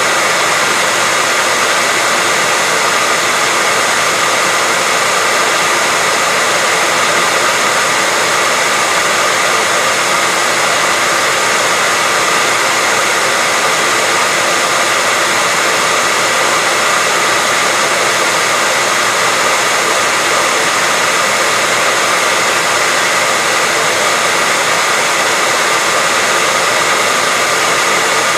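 Hairdryer running steadily with a constant blowing rush of air and a faint motor whine, unchanging throughout.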